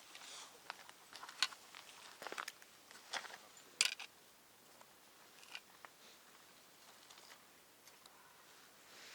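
Scattered short clicks and rustles, like objects being handled, mostly in the first few seconds and sparser afterwards.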